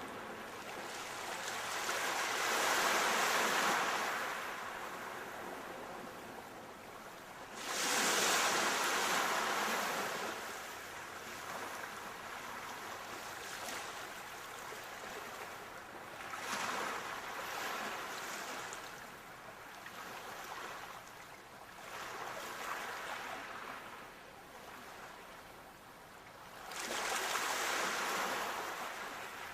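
Sea waves breaking and washing ashore in slow, repeated surges: the loudest come about three seconds in, at about eight seconds with a sudden rise, and near the end, with smaller swells between them.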